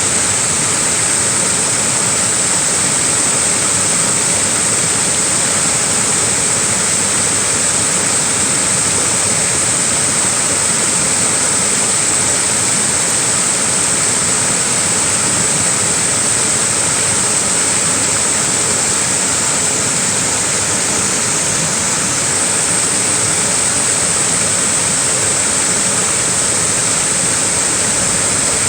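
Small waterfall splashing in a steady, unbroken hiss-like rush of falling water, strongest in the high range.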